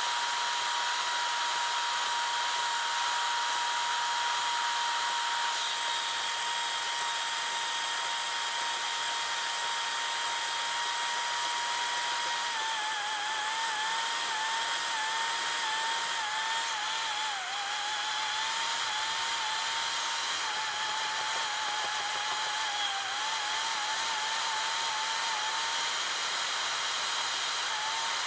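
Electric power tool motor running with a steady high whine. About halfway through, its pitch starts dipping briefly over and over as the tool is loaded.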